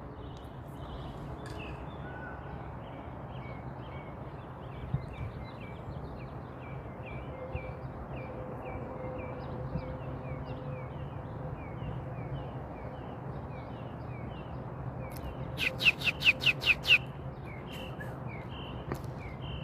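Small birds chirping: a quick, steady string of short high chirps, about two or three a second, over a faint low hum. About three-quarters through, a louder, sharper run of about seven rapid calls.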